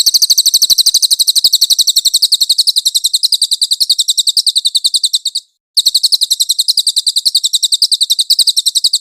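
Recorded cage-bird song: a long, very regular run of rapid high-pitched notes, about ten a second, breaking off briefly about five and a half seconds in and then resuming.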